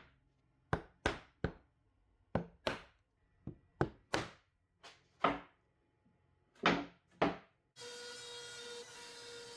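About a dozen sharp wooden knocks at uneven intervals, with dead silence between them. About eight seconds in, a steady machine whine with a clear pitch starts up.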